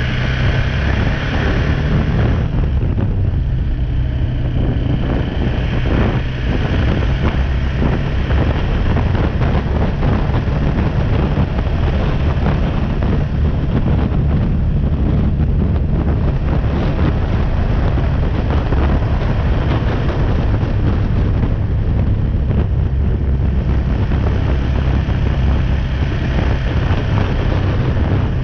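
BMW G310R motorcycle's single-cylinder engine running under way, with wind buffeting the action camera's microphone. The higher rush of sound eases off about two seconds in.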